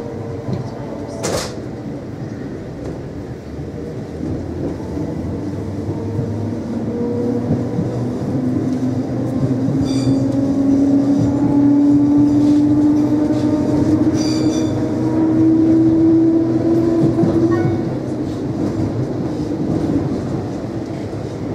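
Class 230 D-Train (converted ex-London Underground D78 stock) heard from inside the carriage as it picks up speed. Its traction drive whines, rising steadily in pitch and getting louder, then eases off a few seconds before the end. Wheels click over rail joints and pointwork along the way.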